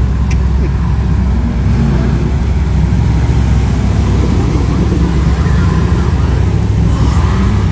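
A car engine running steadily at low revs close by, with no rev or pitch change.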